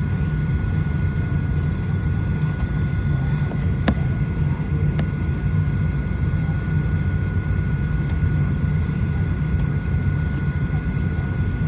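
Steady low drone inside the cabin of a Boeing 737-900ER on the ground, with a constant high whine over it. A sharp click sounds about four seconds in, and a fainter one about a second later.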